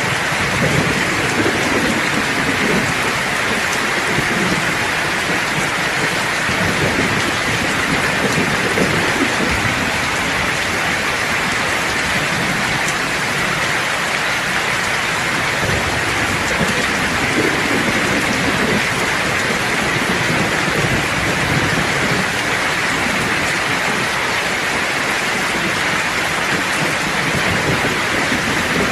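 Steady heavy rain hissing, with low rumbles of thunder swelling a few times, near the start, about 8 seconds in, around 17 seconds in and at the end.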